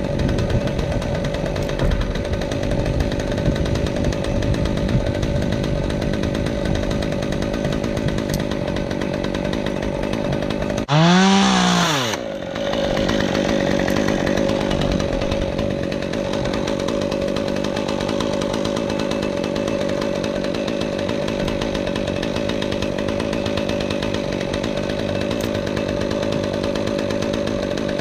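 Chainsaw engine running steadily, with one brief, louder rev about eleven seconds in.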